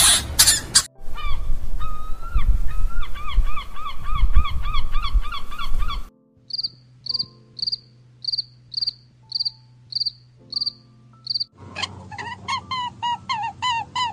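An insect chirping in short, high, evenly spaced chirps, about two a second, shown as a grasshopper. Before the chirping comes a run of short pitched animal calls, about three a second. Near the end, fast chirping calls take over.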